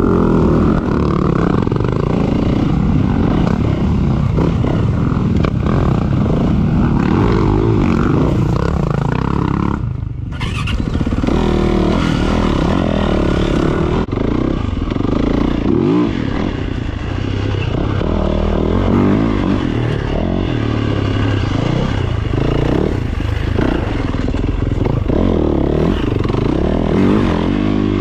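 Four-stroke dirt bike engine being ridden, its pitch rising and falling with the throttle, with a brief let-off about ten seconds in.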